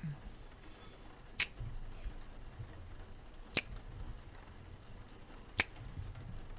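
Three kisses, wet lip smacks close to the microphone, about two seconds apart.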